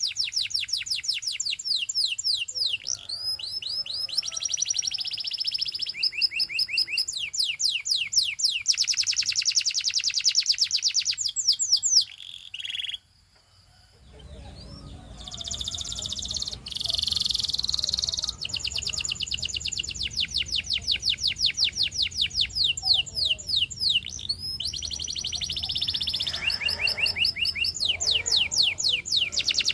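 Domestic canary singing: long runs of fast, high-pitched trilled notes repeated many times a second, one tour after another. A short pause falls about halfway through, after which a faint low hum runs under the song.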